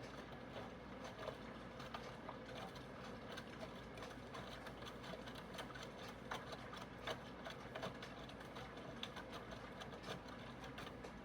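Aidoo 1 kg mini washing machine with a direct-drive motor running mid-cycle: a steady low hum with irregular clicking and knocking throughout.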